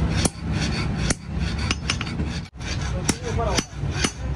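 Sharp metal taps and clinks from hand tools striking a rusty knife during its restoration, about seven irregular hits.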